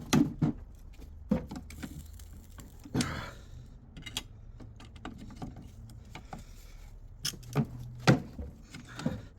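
Metal gearbox parts clinking and knocking as they are handled on the bench: a string of separate sharp strikes, the loudest just after the start and about eight seconds in, with a brief rustle around three seconds in.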